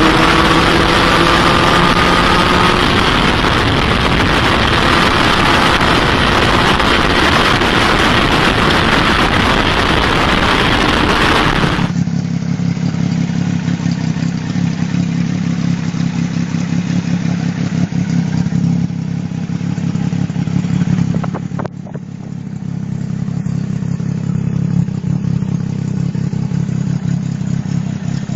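Benelli Tre-K 1130 Amazonas motorcycle's inline three-cylinder engine and exhaust under acceleration, pitch rising through the first few seconds. About twelve seconds in it changes to a different recording of the engine running at a steady pitch, dipping briefly around two-thirds of the way through.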